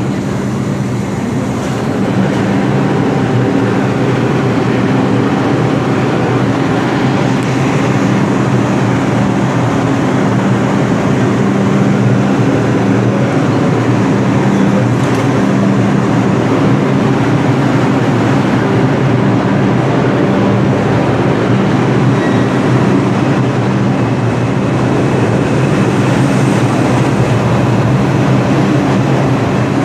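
New York City subway train running in the station: a steady, loud rumbling noise with a low hum.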